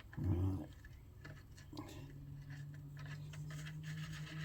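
Faint small clicks and light scraping of hands handling engine parts, over a low steady hum.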